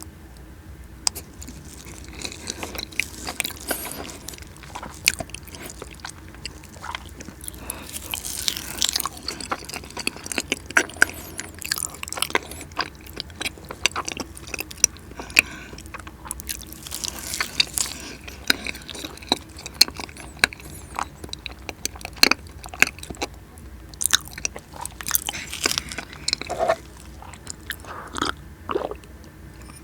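Close-miked eating sounds: a person biting and chewing cheesecake, with sticky, wet mouth clicks and smacks throughout.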